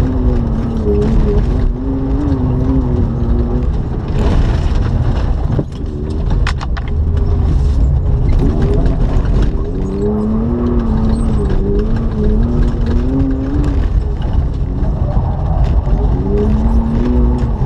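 BMW E36 engine heard from inside the cabin, its pitch climbing and dropping repeatedly as the car is driven hard on a loose gravel track, with a short lift about five and a half seconds in. Rough bursts of gravel noise about four to eight seconds in.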